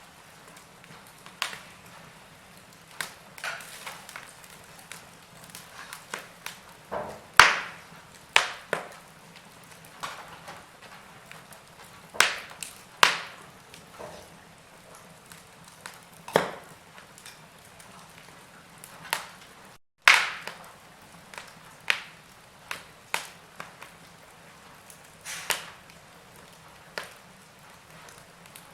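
Wood fire crackling in a fireplace: irregular sharp pops and snaps from the burning logs, a few of them loud, over a low steady hiss. The sound cuts out completely for a moment about twenty seconds in.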